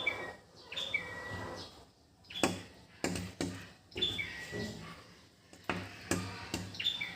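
Baby bird chirping: four short calls, each dropping from a high note to a lower held one, with scattered sharp taps between them.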